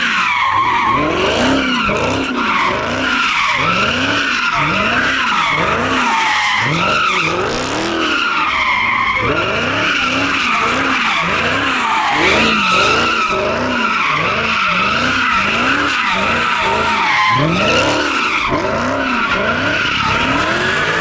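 A car doing donuts with its tyres squealing and skidding, the pitch of the drivetrain rising and falling about once a second as the car goes round and round.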